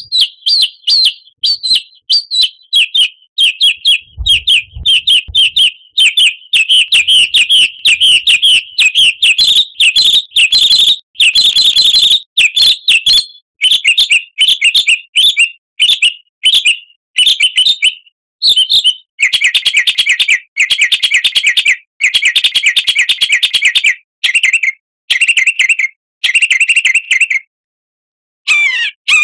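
Songbird singing vigorously in a lure recording for training caged birds: a near-continuous run of rapid, high chirps, changing about two-thirds of the way through to bursts of fast, rattling trills with short gaps between them.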